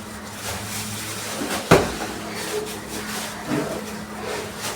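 A single sharp knock in the kitchen, the loudest sound here, a little under two seconds in, with a softer knock later, over a steady low hum.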